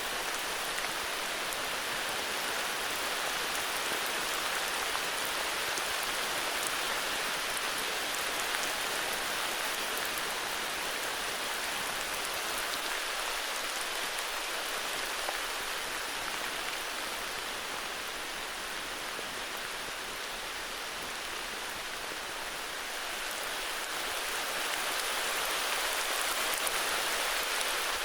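Heavy rain falling steadily, a dense even hiss of drops, easing slightly about two-thirds through and picking up again near the end.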